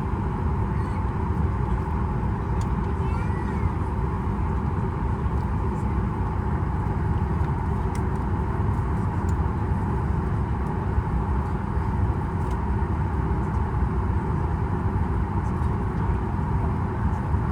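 Steady low rumble and even hum of a Boeing 737 MAX 8's cabin on the ground, mostly the air-conditioning airflow, heard from inside the cabin.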